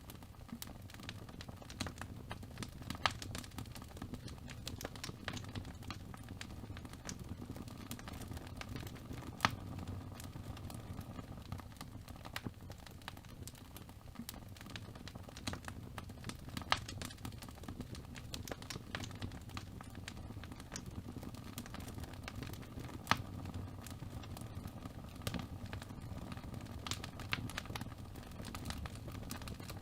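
Fire burning in a fireplace: a steady low rumble of flame with constant small crackles, and a sharper, louder pop every six or seven seconds.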